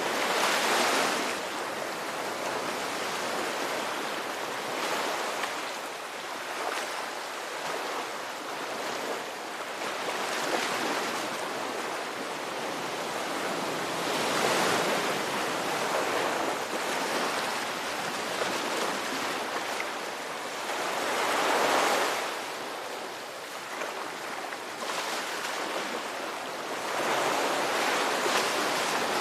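Ocean surf: a steady wash of breaking waves that swells louder every several seconds as each wave breaks and runs up, about five times.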